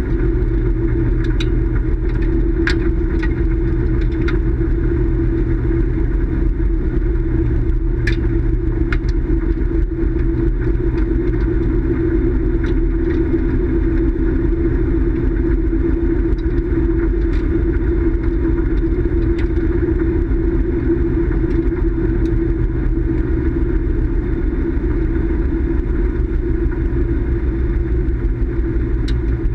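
An engine running steadily at one constant speed, with a few light clicks scattered through.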